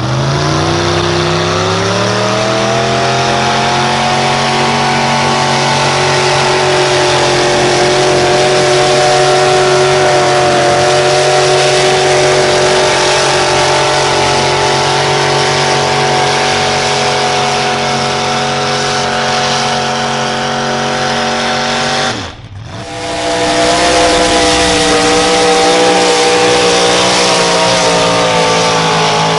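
Pulling truck or tractor engine revving up as the run starts, then held at high revs under the load of the sled. It cuts off abruptly about 22 seconds in, and a second run at steady high revs follows.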